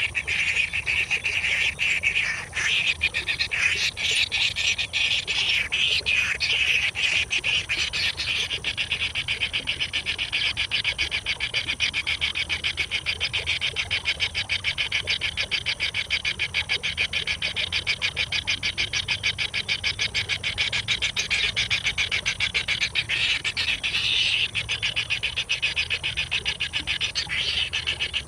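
Nestling birds begging: a dense, steady stream of rapid high chirps, irregular for the first several seconds, then an even fast trill.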